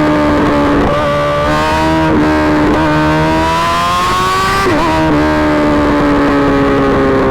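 Suzuki GSX-R1000 inline-four motorcycle engine running loud through an M4 GP Series slip-on exhaust, its note holding a high pitch and drifting slowly. The pitch climbs for a second or so past the middle, then breaks briefly, as at a gear change, and settles lower.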